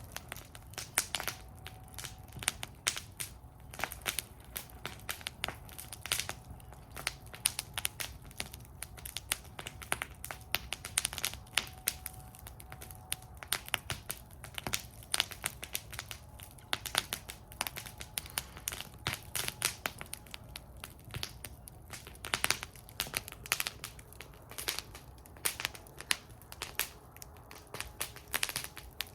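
Wood fire burning in a fire bowl, crackling with many sharp, irregular pops and snaps.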